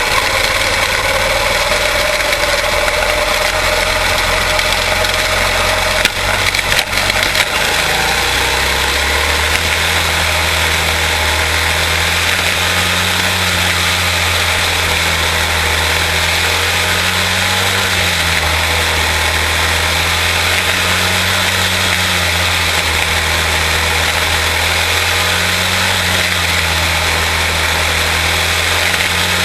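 Quarter midget race cars' single-cylinder Briggs & Stratton Animal engines running on track, their pitch rising and falling slowly in a repeating cycle. A few sharp knocks about six to seven seconds in.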